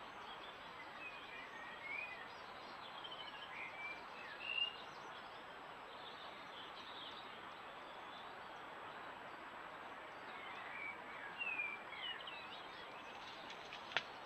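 Woodland birdsong: short chirping, whistled phrases in two spells, the first about a second in and the second around ten seconds in, over a steady hiss. A single sharp click near the end.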